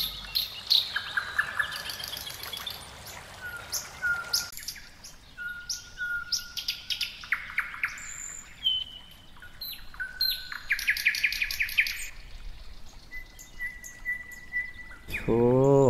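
Several songbirds chirping and whistling: short level whistled notes repeated every second or so, mixed with quick rattling trills.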